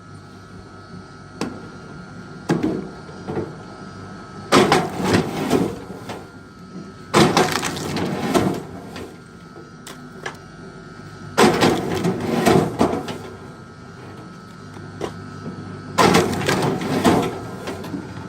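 Large logs splitting, the wood cracking and tearing apart in four bursts of about a second each, a few seconds apart, with sharp cracks in them over a faint steady hum.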